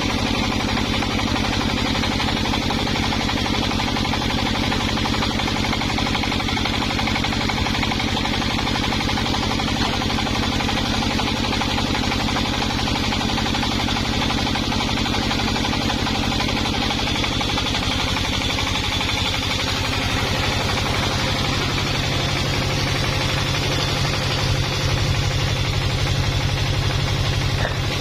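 Engine of a home-assembled chainsaw running steadily with a rapid firing rhythm; about two-thirds of the way through its note drops lower.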